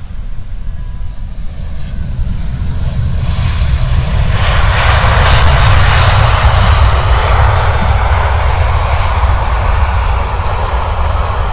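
Airliner's engines as a plane passes at the airport: a broad engine roar that swells about three seconds in, is loudest around the middle and stays loud near the end, over a heavy low rumble.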